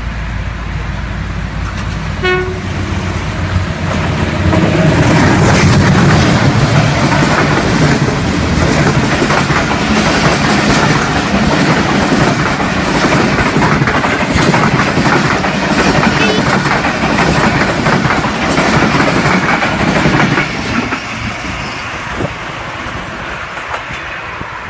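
Passenger train running, heard from inside the coach. A short horn toot comes about two seconds in. A loud rumble and clatter of the wheels then builds and runs for about sixteen seconds before easing off.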